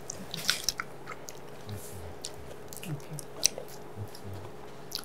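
A person chewing a mouthful of food while tasting it, with scattered light clicks of a fork on a plate.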